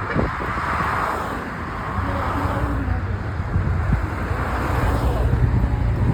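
Motorcycle engine running under way, a steady low rumble with road and wind noise over it.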